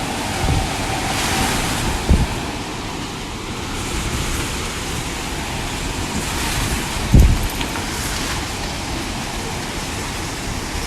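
Strong wind rushing steadily, with gusts buffeting the microphone a few times, the strongest about two seconds and seven seconds in.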